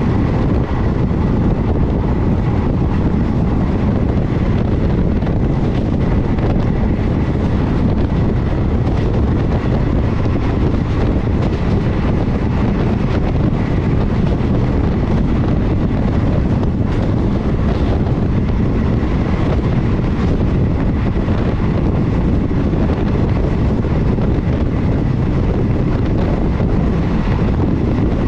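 Steady rumble of a passenger train running at speed, heard from aboard, with wind buffeting the microphone.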